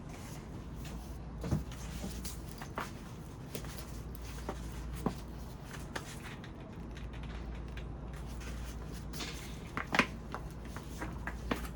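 Scattered knocks, scrapes and rustles of a plant pot and soil being handled while a houseplant is repotted, the loudest knock about ten seconds in, over a low steady hum.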